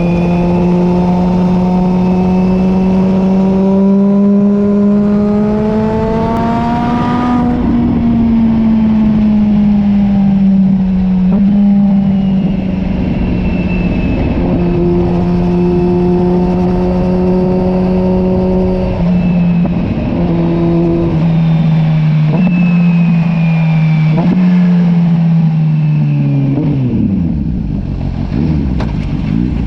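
Kawasaki Z H2's supercharged inline-four, through a Leo Vince LV Pro exhaust, pulling hard under acceleration. It is shifted up through the gears with the quickshifter, so the note breaks sharply several times without letting off. Near the end the revs fall away as the bike slows.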